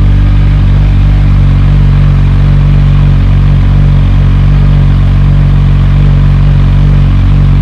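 Kawasaki Z1000R's inline-four engine idling steadily with its left stock muffler removed, giving a loud, droning exhaust note.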